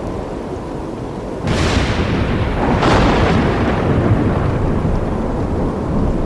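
Thunder: a sharp crack about a second and a half in and a second about three seconds in, each rolling off into a low rumble over a steady low background noise.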